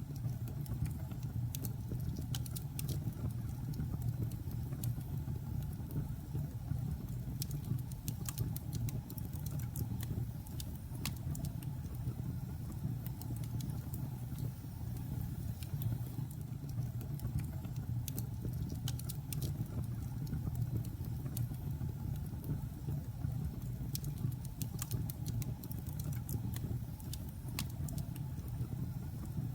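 Wood logs burning in a fireplace: a steady low rumble of the fire with irregular sharp crackles and pops, clustered in short runs.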